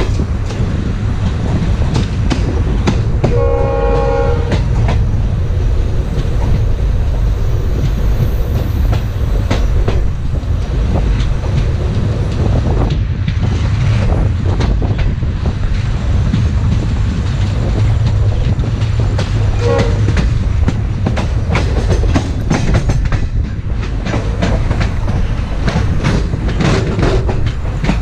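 Indian Railways passenger train running at speed, heard from on board: a steady rumble with rapid wheel clicks over the rail joints. The locomotive's horn sounds once for about a second, about three seconds in, and briefly again near twenty seconds.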